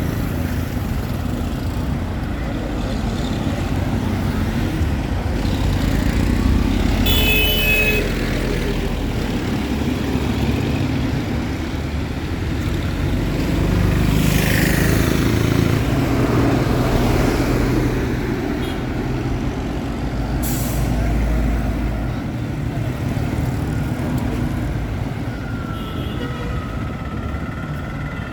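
Town street traffic: heavy vehicles such as trucks or buses running and passing close by, with a short horn blast about seven seconds in and a falling hiss around the middle.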